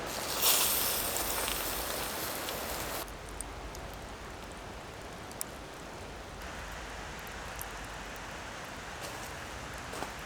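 A loud hiss lasting about three seconds near the start, then a steady rushing background with scattered faint crackles of a campfire.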